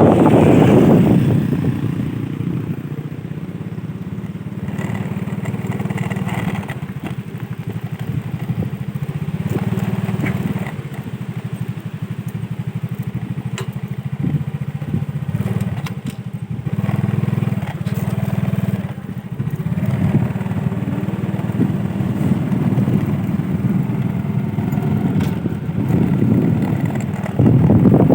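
An engine running steadily with a low drone, and gusts of wind on the microphone near the start and again near the end.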